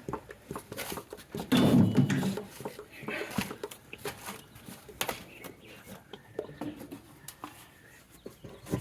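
A dog's brief vocal sound about a second and a half in, amid scattered light clicks and knocks.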